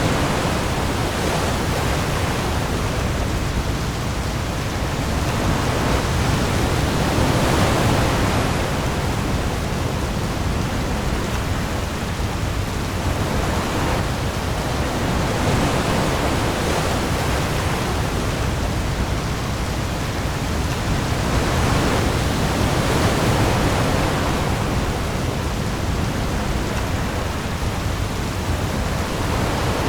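Heavy rain falling on the open sea with waves, a dense steady hiss that swells and eases every several seconds over a deep low rumble.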